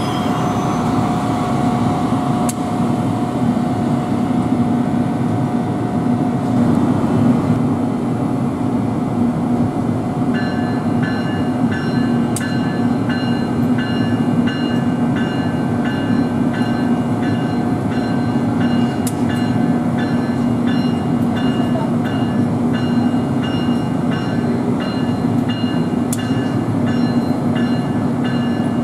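NJ Transit electric commuter train running with a steady low hum and rumble. From about ten seconds in, a bell strikes in a steady rhythm, a little more than once a second, with a few sharp clicks scattered through.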